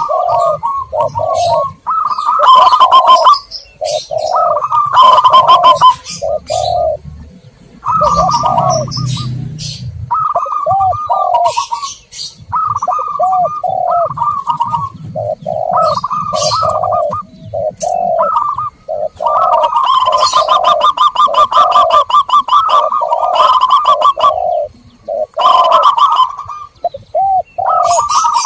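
Zebra doves and spotted doves cooing, with a steady run of short low coo notes and bursts of rolling, trilled cooing several times, mixed with high chirping. This is a dove lure call meant to draw wild doves in.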